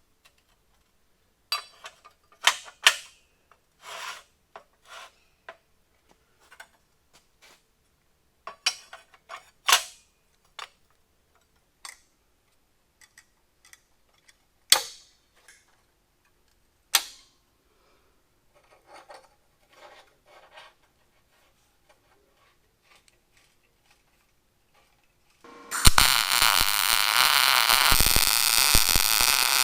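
Scattered scrapes, clicks and knocks of metal parts and tools being handled, on and off with quiet gaps. About four seconds before the end a loud, steady hissing noise starts abruptly.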